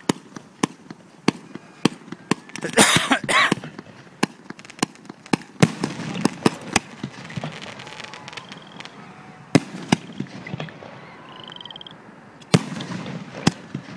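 Aerial fireworks bursting overhead: a rapid, irregular run of sharp bangs and pops, with a dense loud stretch of crackling about three seconds in and a few single louder reports later.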